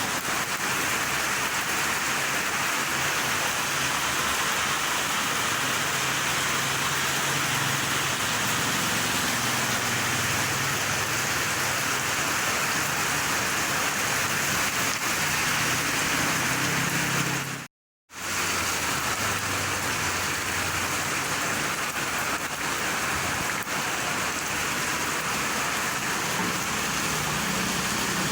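Steady rain falling, a dense even hiss. It cuts to silence for a moment about 18 seconds in, and a faint low hum comes and goes underneath.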